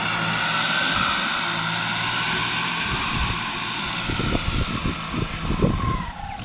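Kubota diesel tractor engine running steadily under plowing load, with uneven low thumping in the second half and the engine note dropping slightly near the end.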